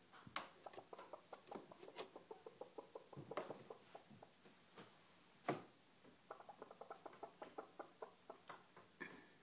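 Bantam chicken making quiet runs of short soft ticks, about five a second, with one sharper click about five and a half seconds in.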